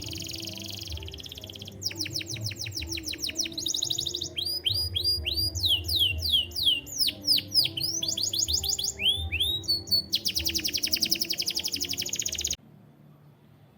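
Domestic canary singing a long song of fast trills and runs of repeated sweeping notes, changing phrase every second or two. The song cuts off abruptly near the end.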